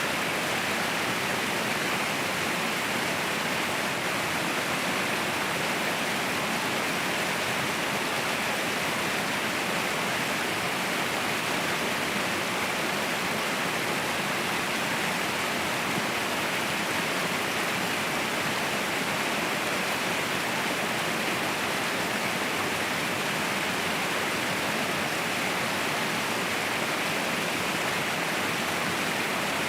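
Waterfall rushing in a steady, unbroken roar of falling water, with no change or separate events.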